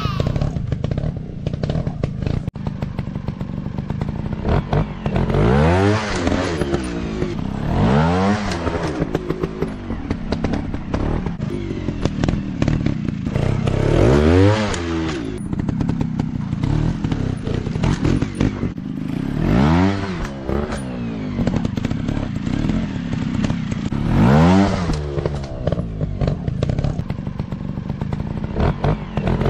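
Dirt bike engine running and revved up five times, each rev rising in pitch and dropping back, with the engine running low in between and some clattering.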